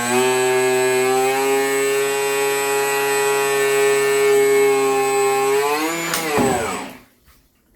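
2830 brushless outrunner motor running at speed with a steady high whine. Its pitch steps up right at the start, holds, then falls as the motor spins down about six seconds in and stops a second later.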